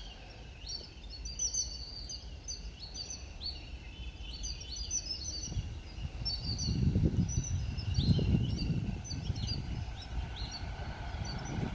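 Birds chirping repeatedly, while the low rumble of an approaching WAP-1 electric locomotive and its freight wagons builds up from about halfway through, growing louder as it nears.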